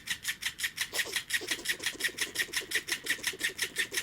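Battery-powered flopping toy fish for cats running, its mechanism clicking rapidly and evenly at about seven clicks a second.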